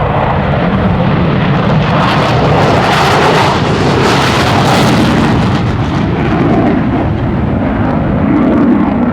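Twin-engine F-15 Eagle fighter jets on a scramble departure: loud jet noise swelling to its peak about two to five seconds in, then a steady lower rumble.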